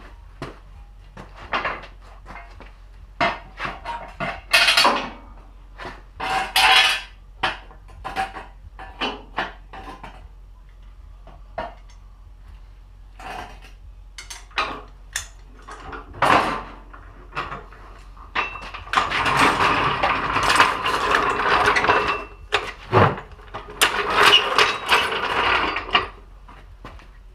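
Hand tools and metal parts clanking and rattling while someone works on a lawn tractor's front axle. Irregular knocks come every second or so, with two longer stretches of busy rattling near the end.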